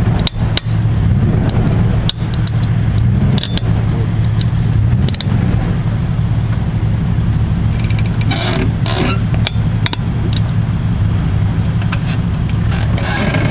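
Jeep 4x4 engine running steadily, a low constant hum, while a tow strap takes up the load to pull a stuck Jeep out of a rut. Scattered sharp clicks, and a brief scraping noise about eight to nine seconds in.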